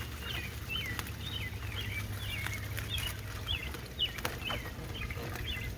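A bird singing a continuous run of short, quick chirps, two or three a second, over a steady low hum, with a few faint clicks.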